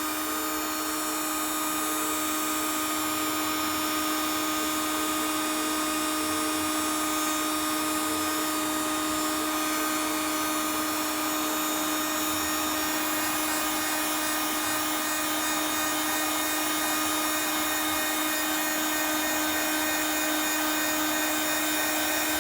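Electric heat gun running steadily: an even rush of blown air with a constant motor hum and whine.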